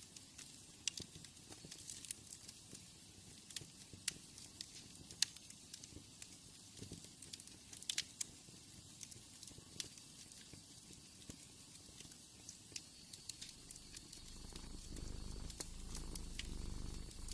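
Wood fire crackling, with scattered sharp pops over a soft hiss. In the last few seconds a cat's low purring swells in under the crackle.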